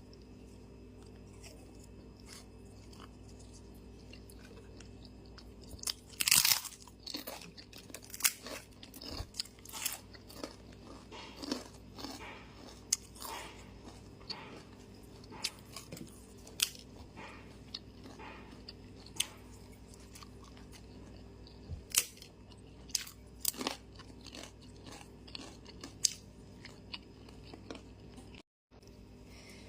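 A person chewing and crunching a meal of tempe oreg (sweet soy-glazed tempeh) close to the microphone. There are irregular bites and mouth clicks from about six seconds in, over a steady low hum. The sound cuts out for a moment near the end.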